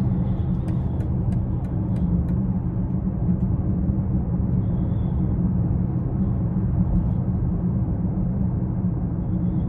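2020 BMW X6 40i under way, its turbocharged inline-six and the road giving a steady low rumble with no change in pitch.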